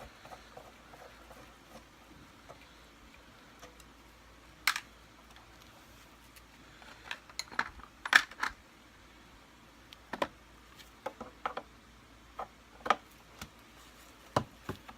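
Irregular clicks and taps of a screwdriver taking the screws out of the plastic cover on a Kirby Sentria II vacuum cleaner's handle, small metal and plastic knocks, loudest about halfway through.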